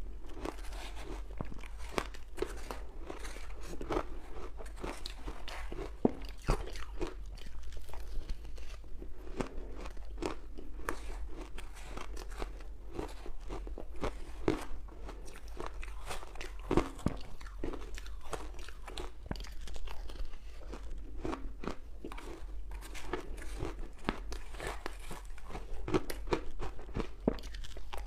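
Close-miked crunching of ice cubes dusted with matcha powder being bitten and chewed, a dense run of irregular sharp cracks and crackles.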